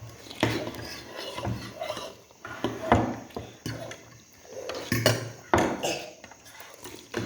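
Spoon clinking against a bowl of noodle soup several times while eating.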